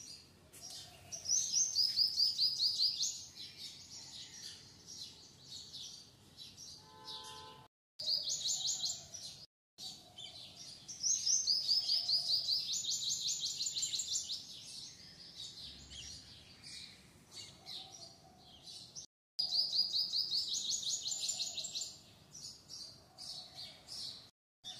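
Small birds chirping in quick runs of repeated high notes, some stepping up and some down. The runs come in several louder bouts with scattered quieter chirps between. The sound drops out briefly a few times.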